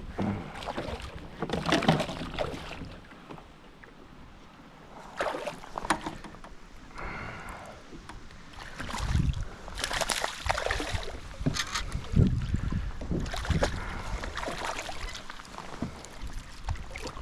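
Wind gusting against the microphone in a kayak, in deep rumbling surges, with scattered knocks.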